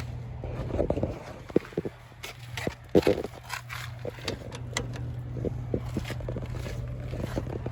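Small tractor's engine running steadily at a low, even pitch, with irregular knocks, clicks and scrapes over it, the loudest about three seconds in.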